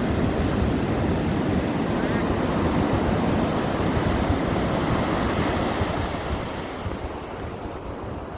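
Ocean surf: a wave washing in steadily, then dying away from about six seconds in, with wind buffeting the microphone.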